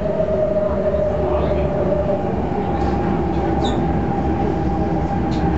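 MTR Tung Chung Line A-Train electric multiple unit running: steady rumble of wheels on track with the whine of its traction motors. One whine tone drifts slightly down and fades about two seconds in, while a higher, steadier whine carries on.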